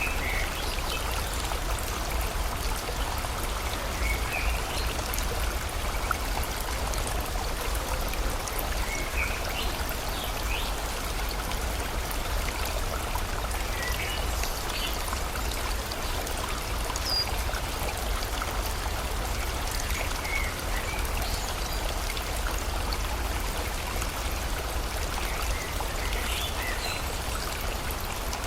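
Steady rushing of a river's flowing water, with faint short bird chirps every few seconds.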